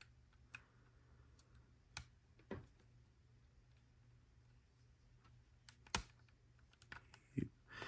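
Small plastic Lego bricks clicking and tapping as they are handled: a handful of faint, separate clicks, the sharpest about six seconds in and a few more close together near the end.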